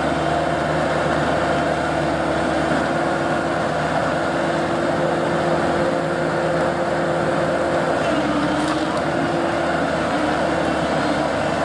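Excavator's diesel engine and hydraulics running at a steady pitch, with no clear knocks or impacts.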